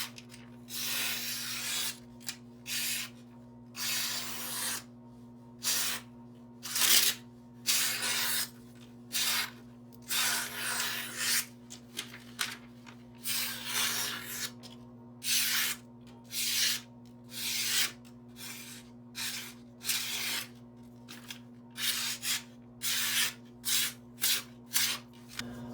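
Knife edge drawn across magazine paper in about twenty separate hissing, rasping strokes, roughly one a second, some short and some longer.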